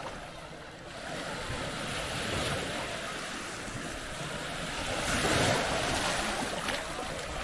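Small waves breaking and washing up a sandy shore, a steady rush of surf that swells louder about five seconds in.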